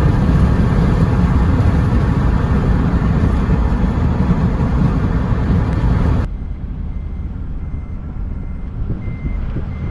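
Loud, steady vehicle and wind rumble that cuts off suddenly about six seconds in, leaving a quieter rumble. Short high beeps repeat near the end.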